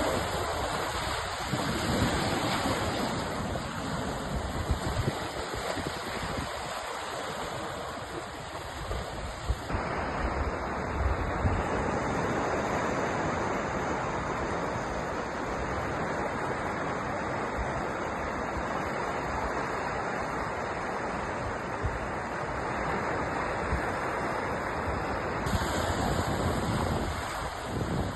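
Sea surf washing continuously, an even rushing noise of waves. The sound's character changes abruptly about ten seconds in and again near the end, as if the recording were spliced.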